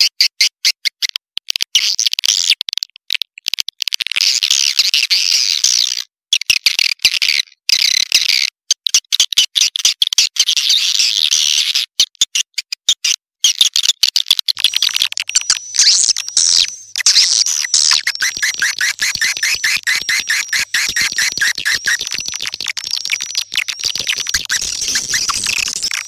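Swiftlet call recording used as a lure sound for swiftlet nesting houses: rapid, dense chittering trills broken by short gaps. About halfway through, a thin high steady whistle joins in over the trills.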